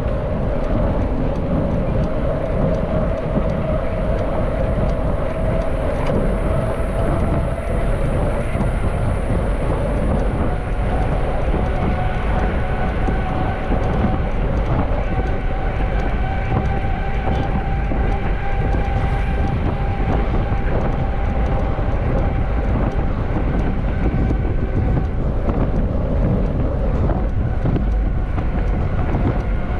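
Wind rushing over the microphone and tyre noise from a mountain bike riding at speed: a loud, steady rush with a faint steady whine above it.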